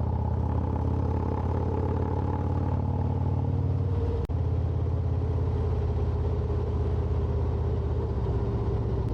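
Harley-Davidson Road Glide's V-twin engine running steadily while cruising, heard from the saddle. There is one brief sharp break in the sound about four seconds in.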